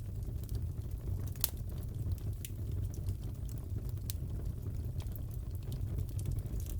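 Wood fire crackling in a fireplace: a steady low rumble with sharp, irregular pops and snaps, the loudest about a second and a half in.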